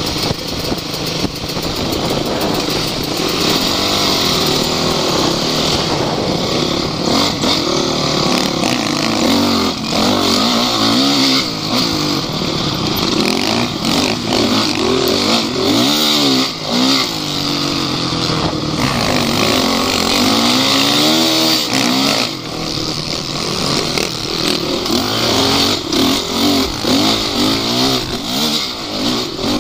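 Off-road vehicle engine revving up and down over and over under load, with knocks and rattles throughout.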